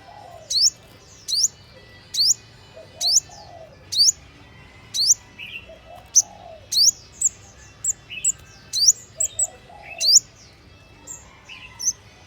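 A bird chirping over and over with short, sharply rising calls, about one every 0.7 s. In the second half the chirps come quicker and more varied, with a few soft low notes in between.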